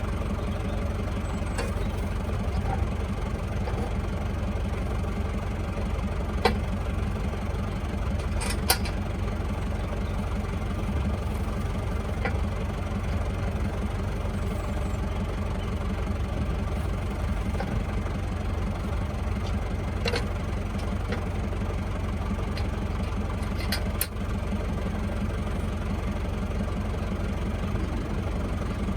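Renault 7514S tractor's diesel engine idling steadily, with a few sharp metal clanks from the log splitter's hitch pins and three-point linkage being coupled.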